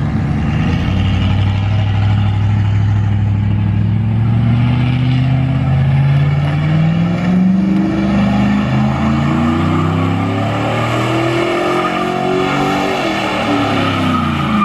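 Pickup truck engine revving hard during donuts, its pitch climbing over several seconds and held high, then falling away near the end.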